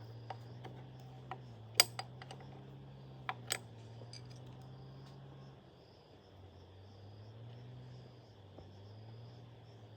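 A few sharp clicks and clinks, the loudest about two seconds in, over a steady low hum that drops in pitch about halfway through, with insects chirring faintly.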